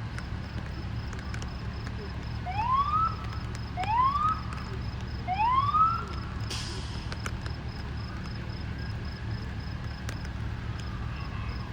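Police car siren giving three short rising whoops, about a second and a half apart, over a steady low rumble. A fainter siren tone falls away near the end.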